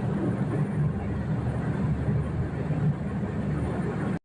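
Steady low engine drone, an even rumble with no clear changes, heard from on board a moving vehicle or vessel.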